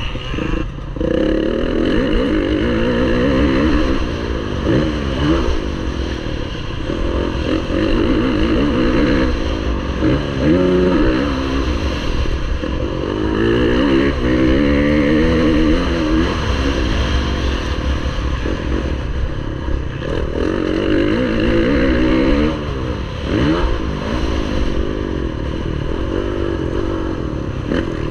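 Motocross bike engine revving hard and dropping back again and again as it is ridden around the track, with chassis clatter.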